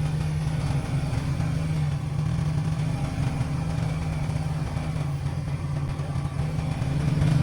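Motorbike running at road speed, heard from the passenger seat as a steady, choppy low rumble.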